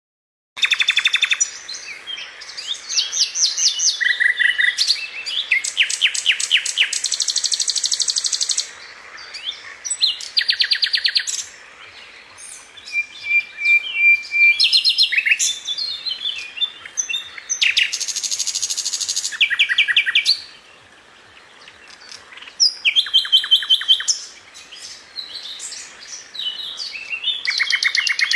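Songbirds singing, several overlapping songs of fast trills and quick repeated chirps, starting suddenly about half a second in, with a few short lulls.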